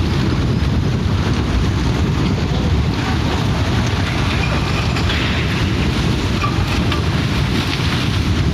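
Loud, steady rushing noise, heaviest in the low end, without a break.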